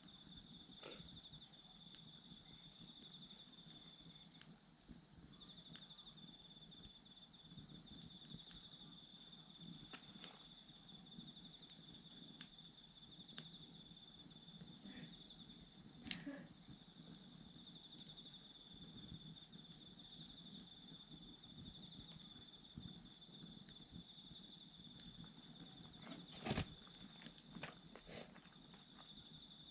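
Autumn insects chirping in several steady, high-pitched trills, some pulsing evenly, over a wood campfire that crackles with scattered sharp pops. One pop near the end is louder than the rest.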